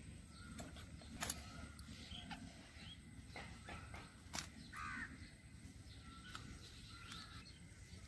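Faint outdoor birdsong with a crow cawing once about five seconds in, and a couple of sharp clicks as a plucked quail is cut open with a large curved blade.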